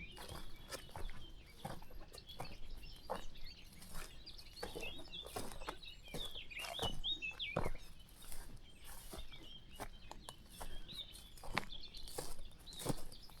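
Footsteps on a country path at walking pace, with birds chirping and calling throughout.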